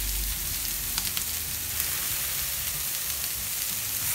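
Pineapple rings and pork medallions sizzling steadily on a hot flat-top griddle, with a few light clicks as a metal spatula turns the rings.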